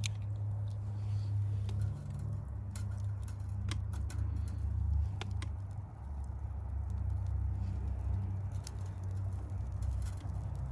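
Campfire crackling with scattered sharp snaps over a steady low rumble.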